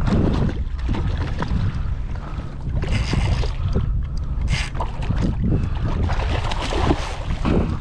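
Wind buffeting an action-camera microphone on a kayak, a constant low rumble, with short bursts of water splashing about three and four and a half seconds in.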